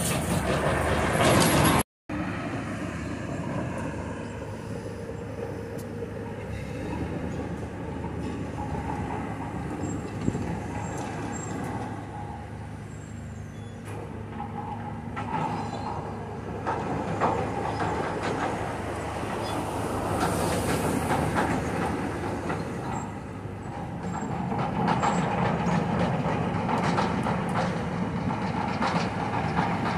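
Demolition machinery working: a steady mechanical rumble with scattered knocks and clanks, louder in the first two seconds and swelling again later. The sound drops out abruptly for a moment about two seconds in.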